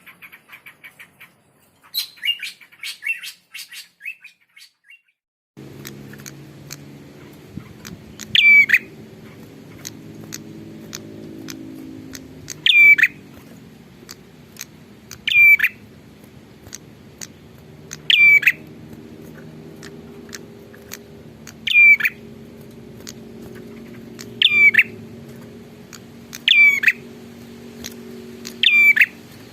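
Prinia (prenjak) calling: rapid chirping in the first few seconds, then, over a low steady hum, a short loud falling call repeated about every two to four seconds.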